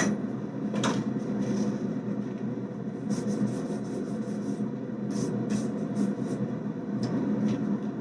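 Hammer striking the hot damascus billet, the last two blows of a forge-welding run: one at the very start and one about a second in. Then a steady low hum with a few light metal knocks and clinks.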